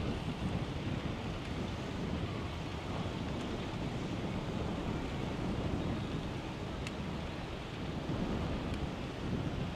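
Wind buffeting the microphone of a camera on a moving bicycle: a steady low rumble, with a few faint ticks.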